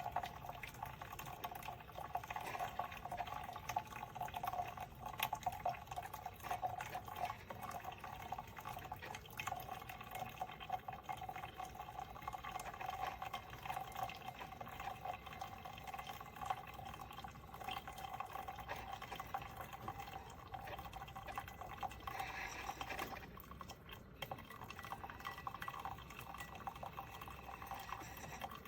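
Cuisinart drip coffee maker brewing: water trickling and gurgling steadily, with a short dip about 23 seconds in.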